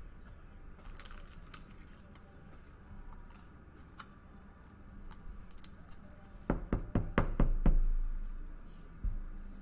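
Trading cards being handled on a tabletop: light scattered clicks and taps, then a quick run of loud knocks with a dull thud about six and a half seconds in, and one more knock near the end.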